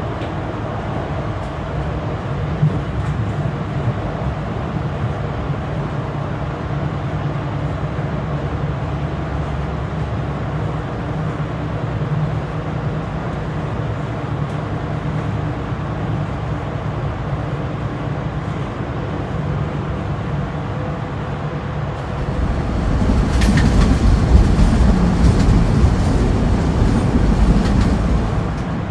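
Train in motion: a steady running rumble with a low hum. About two-thirds of the way through it grows louder for several seconds, with rattling clicks, then settles back.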